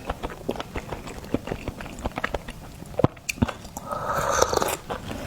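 A person chewing seafood close to the microphone: irregular wet mouth clicks and smacks, with a short louder stretch about four seconds in.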